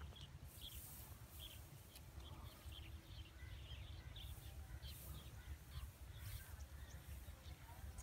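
Small birds chirping in many short, high notes scattered through, over a low uneven rumble of wind noise.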